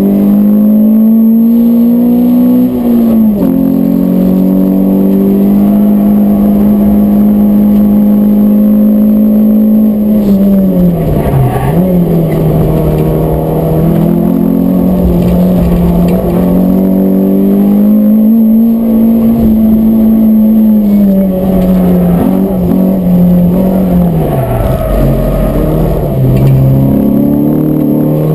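Peugeot 106 S16's 1.6-litre sixteen-valve four-cylinder engine heard from inside the race car's cabin, running hard at a high, steady pitch on track. The note drops sharply about 3, 11 and 24 seconds in as the car shifts gear or slows for corners, then climbs again.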